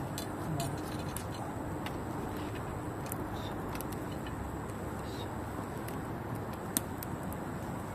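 Wood campfire burning with a steady rush and a few sharp pops and crackles, the loudest near the end.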